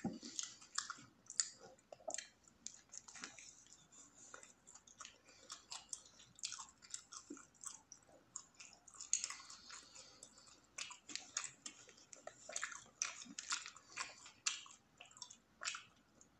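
A person chewing a mouthful of spicy footlong wrap, with many short, irregular mouth clicks and smacks throughout.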